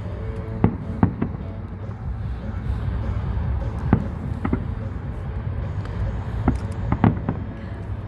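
Aerial fireworks going off: about eight sharp bangs, irregularly spaced and two or three close together near the end, over a steady low rumble, with music playing underneath.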